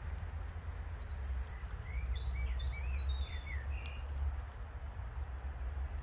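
Songbird singing a short phrase of quick chirps from about one to three and a half seconds in, over a steady low rumble, with a single sharp click near four seconds.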